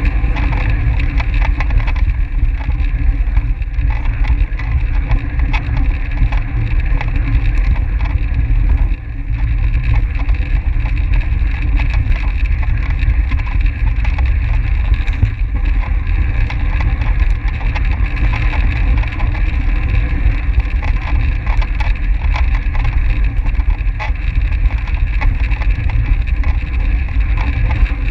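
Wind rushing and buffeting over the microphone of a camera on a track bike ridden at racing speed, with a steady low rumble and many small rattling clicks from the bike. The sound dips briefly about nine seconds in.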